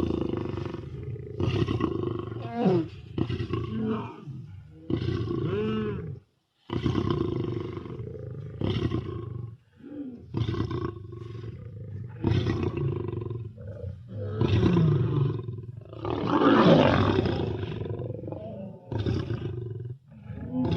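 A rapid series of short lion roars, a dozen or more in quick succession with brief gaps between them. A longer, louder roar comes about three-quarters of the way through.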